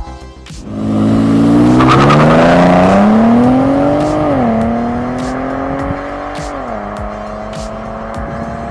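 Car engine accelerating hard through the gears: the pitch climbs steadily, drops at an upshift about four seconds in, climbs again, drops at a second upshift near the seven-second mark, then holds steady.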